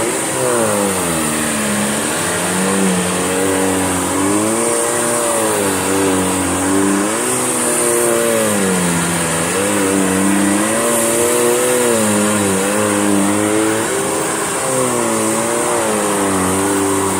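Electrolux Turbo 2 Super vacuum cleaner running on carpet in long, slow strokes, its motor note dipping and rising again every few seconds as it is pushed and pulled back.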